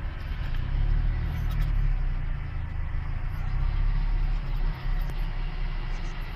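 Steady low rumble with an even hiss above it and a few faint clicks.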